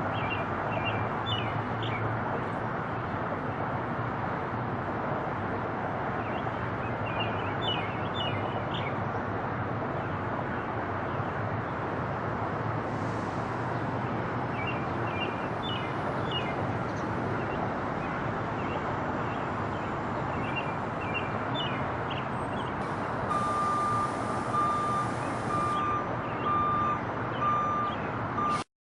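Steady outdoor background rumble with birds chirping in short bursts every few seconds. A reversing beeper sounds about once a second near the end, then the sound cuts off suddenly.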